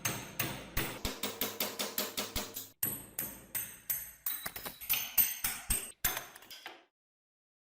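Rapid hammer strikes on metal, about five a second, each with a short metallic ring, in a few edited runs that stop shortly before the end.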